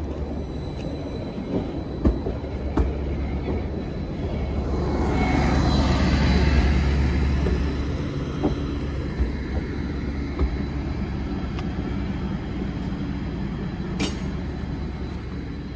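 Greater Anglia class 755 diesel-powered multiple unit moving along the platform close by, its engines and wheels making a steady low rumble that swells to its loudest about six seconds in and then eases. Scattered clicks from the wheels, with a sharp one near the end.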